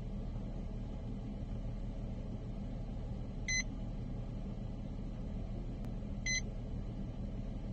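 Steady low engine hum of a running vehicle heard from inside, with two short high electronic beeps, about 3.5 seconds and about 6 seconds in.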